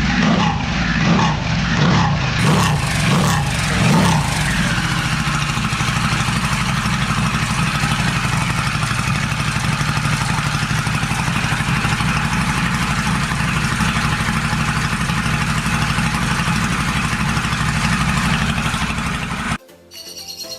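Harley-Davidson Pan America 1250's V-twin running through a Pazoma aftermarket exhaust: about six quick throttle blips, roughly one a second, then a steady loud idle that cuts off suddenly near the end.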